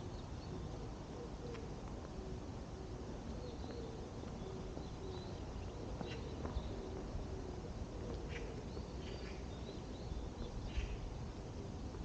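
Small birds chirping intermittently in the trees over a steady low outdoor background rumble, with a couple of short sharp knocks.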